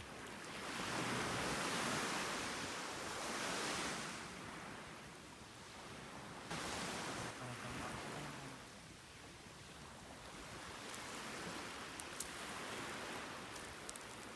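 Sea waves washing onto the shore, a steady hiss of surf that swells and fades in slow surges. A few faint sharp clicks come near the end.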